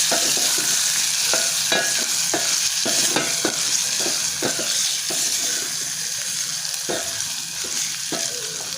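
Beef frying in oil in a sufuria, sizzling steadily, while it is stirred with repeated knocks and scrapes against the pot, about two a second.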